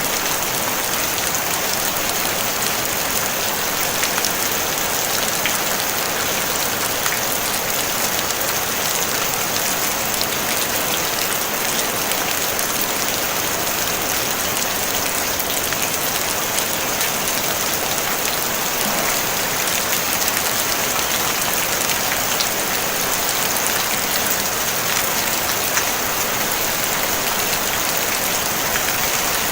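Steady rain falling on a tin roof: a dense, even hiss of drops with fine pattering ticks, no thunder.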